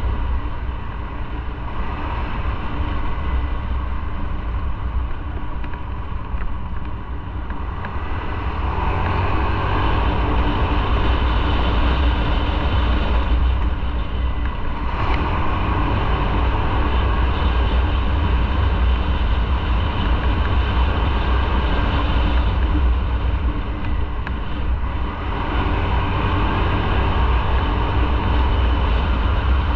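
Motorcycle on the move: the engine runs under a steady rush of wind and road noise. It grows louder about eight seconds in, eases off briefly a little after halfway, then picks up again near the end.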